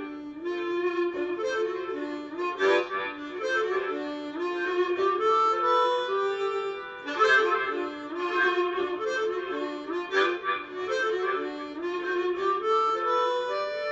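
Blues harmonica playing an instrumental melody line of held, stepping notes, with a few louder chordal blasts.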